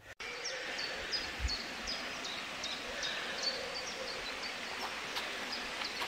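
A small bird calling over and over with short, high notes that drop in pitch, about three a second, over a steady hiss of outdoor background noise.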